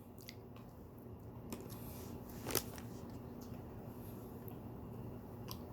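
Faint sounds of a person eating a chocolate chip cookie: quiet chewing and rustling, with one sharper click about two and a half seconds in.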